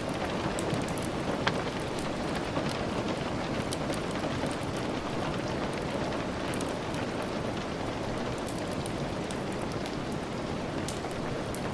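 Steady rain with scattered small crackles and pops from a wood fire, and one sharper pop about a second and a half in.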